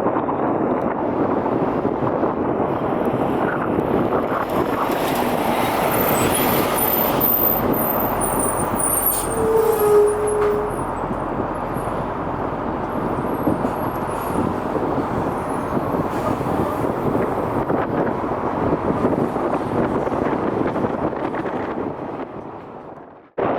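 Steady rushing noise of jet airliner engines, mixed with wind on the microphone, swelling slightly a third of the way in, then fading out near the end and cutting off abruptly.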